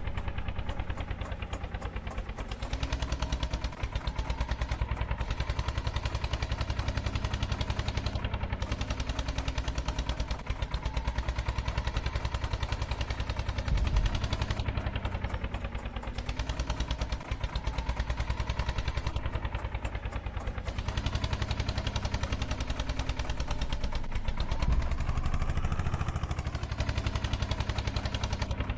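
Eicher tractor's diesel engine running with a fast, even chugging beat, its pitch rising and falling a few times as the engine speed changes, with some rattling.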